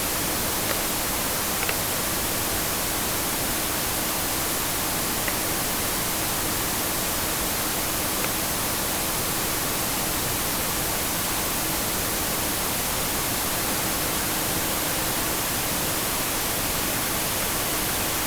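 Steady, unbroken white-noise static hiss filling the room, played loud from the devices around her for the white noise challenge.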